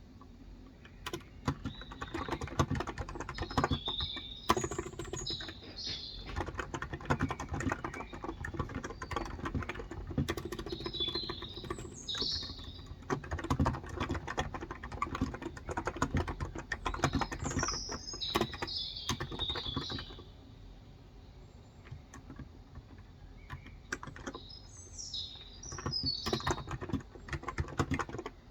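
Typing on a Cox Endeavor electro-capacitive (Topre-style) 35 g tenkeyless keyboard: a steady run of soft keystrokes that stops for a few seconds about two-thirds of the way through, then resumes. Birds chirp in four short bursts.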